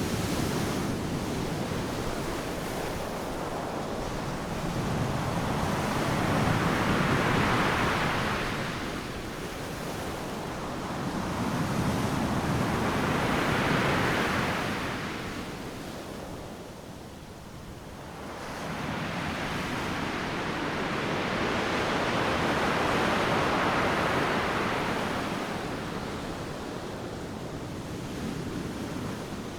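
Ocean waves breaking on a sandy beach: a continuous rush of surf that swells and ebbs, with three big breakers about every seven to nine seconds and a brief lull between the second and third.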